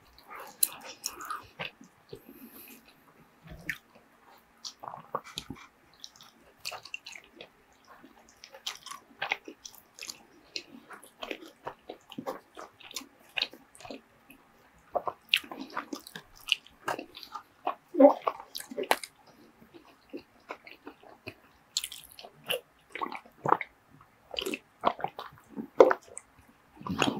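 Close-miked mouth sounds of a person chewing and biting soft food, shredded kalua pork and rice, with many short wet smacks and clicks scattered irregularly.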